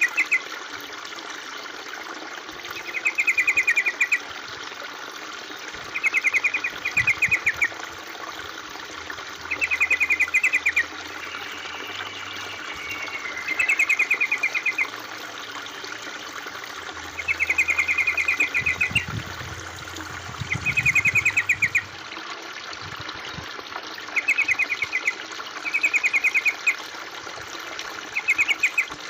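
A songbird giving short bursts of rapid, repeated chattering notes about every three to four seconds, over steady trickling water.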